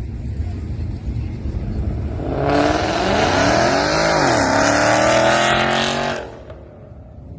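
Car engine at full throttle on a short speed run: a low rumble, then a loud rising engine note that drops at a gear change and climbs again before cutting off abruptly.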